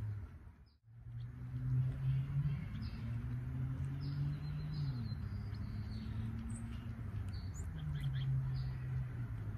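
Small birds chirping in short, scattered calls, over a low steady hum whose pitch drifts slowly up and down.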